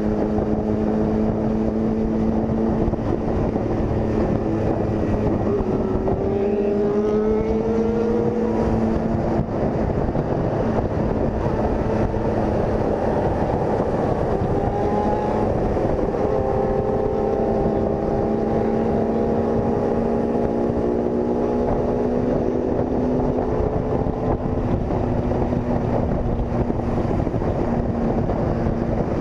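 Single-cylinder engine of a Honda CG 160 Fan motorcycle running steadily at cruising speed, with wind rushing over the microphone. About six seconds in, the engine note rises briefly as it revs up, then settles again.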